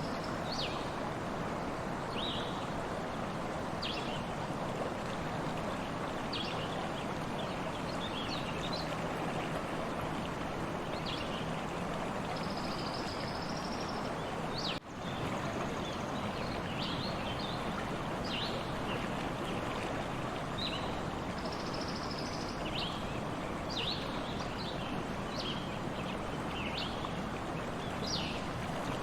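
Steady rushing of a stream's running water, with short high chirps of small birds scattered throughout. A brief dropout in the sound about halfway through.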